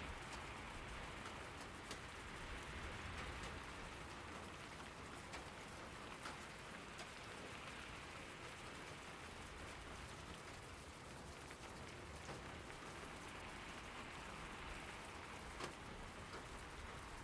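Steady rain falling, an even hiss of rain on surfaces with scattered sharper drops ticking through it.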